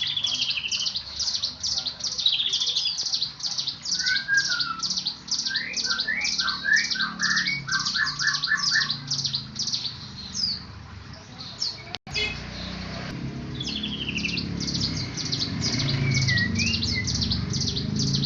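Songbird singing a fast, continuous string of short high chirps, with a run of lower, rising notes in between. The song breaks off for an instant about twelve seconds in, then carries on.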